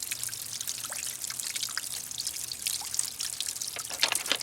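Water from a small fountain pump spilling over the rim of a concrete bird bath and splashing into the pool of a half whiskey barrel below: a steady trickle full of small splashes and drips.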